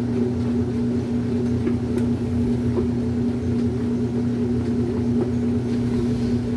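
Brastemp Super Filtromatica washing machine running with a steady motor hum and low rumble, washing a single-bed bedspread, with a few faint clicks.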